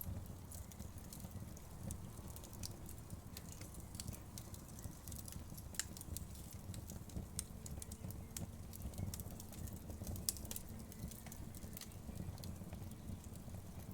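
Wood fire crackling and popping: irregular sharp snaps over a steady low rumble of the flames, with a couple of louder pops about six and ten seconds in.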